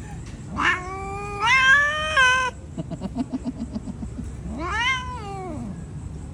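An angry domestic cat yowling: a long drawn-out yowl, a short stuttering growl, then a second yowl that rises and falls. The cat is upset and defensive.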